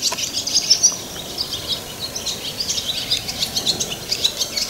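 Small songbirds chirping and twittering, many quick high notes one after another, over a low steady outdoor hum.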